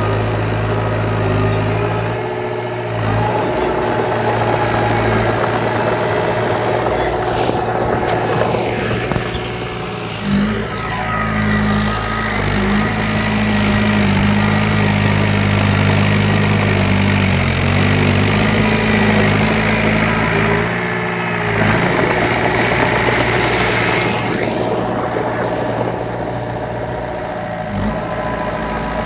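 Diesel engine of heavy earthmoving equipment running steadily, its pitch shifting up and back down in the middle stretch as the engine speed changes.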